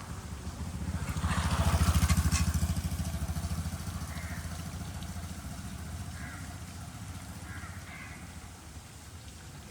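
A motor vehicle passes by, its engine growing louder to a peak about two seconds in and then slowly fading, over a steady hiss of rain.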